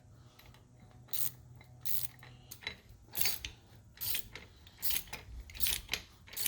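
Hand ratchet clicking in short bursts, roughly once a second, as it runs a nut down a leaf-spring shackle bolt.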